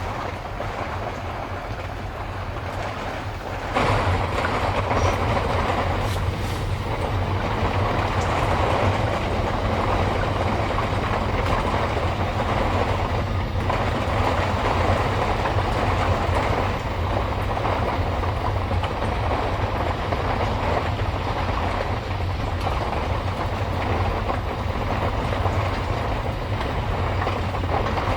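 Typhoon wind and heavy rain: a steady rushing noise with a low rumble underneath, which gets louder about four seconds in.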